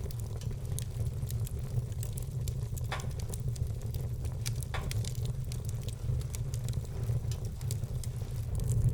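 Wood fire burning in a fireplace, with many small crackles and two louder pops about three and five seconds in, over a steady low rumble.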